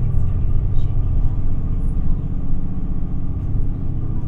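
Cabin sound inside an Isuzu Erga city bus (QPG-LV234L3): the four-cylinder turbo-diesel engine and road noise running steadily while the bus drives along.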